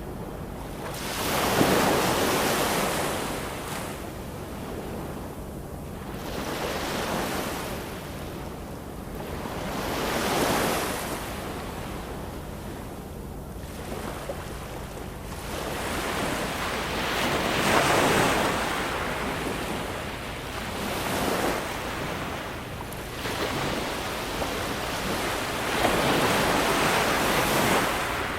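Ocean surf: waves break and wash in as a surge of rushing water every few seconds, some swells louder than others.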